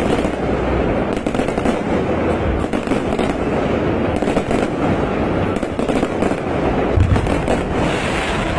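Fireworks going off in a dense, continuous barrage of crackling and popping, with a heavier low thump about seven seconds in.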